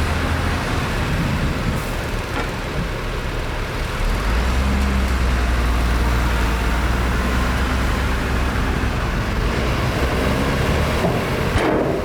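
Heavy diesel engine of earthmoving machinery running steadily under load. About four seconds in, its low drone grows stronger as the engine takes on more load.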